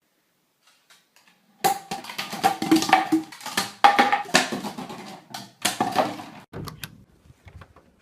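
A quick, irregular run of knocks and clatters for about five seconds, starting about a second and a half in.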